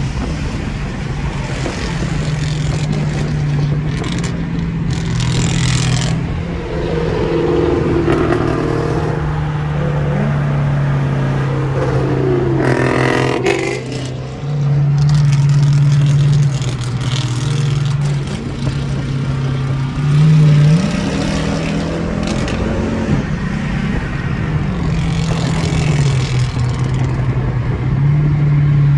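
Straight-piped Dodge Charger R/T's V8 exhaust droning at highway speed over steady road and wind noise. The engine pitch steps up and down several times as the car pulls and shifts. Two sweeping tones dip and rise about 8 and 13 seconds in.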